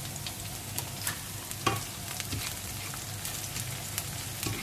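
Sliced onions sizzling in hot oil in a nonstick frying pan, a steady hiss with scattered crackling pops. The onions are being stirred, with a few sharper clicks against the pan, the loudest about a second and a half in.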